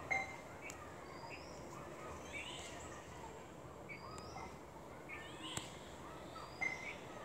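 Birds chirping faintly in the background: short repeated chirps and high, down-slurred whistles over a faint steady hiss.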